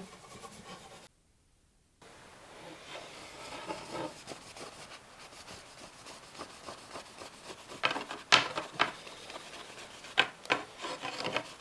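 Wire wool rubbing beeswax polish into a wooden walking stick, a scratchy rubbing with several louder strokes near the end. The sound drops out briefly about a second in.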